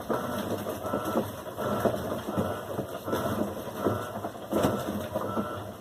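Electrolux washing machine running: a steady mechanical whir with a short squeak that repeats evenly about every three-quarters of a second.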